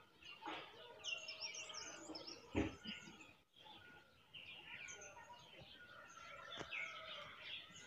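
Several small birds chirping and twittering faintly at dawn, quick calls overlapping. A short soft knock about two and a half seconds in.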